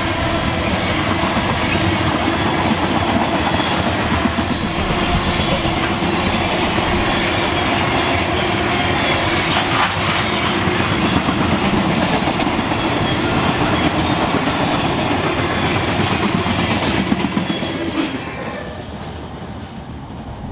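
Freight train rolling past, its wheels clattering over the rails. The passing noise drops away about eighteen seconds in.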